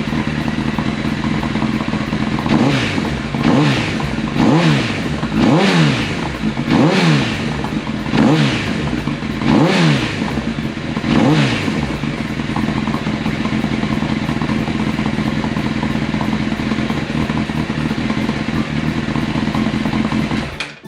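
Honda CBR1000RR SC57 inline-four idling through a Mugen aftermarket muffler, then blipped about eight times in a row, each rev rising and falling quickly about a second apart, before settling back to a steady idle.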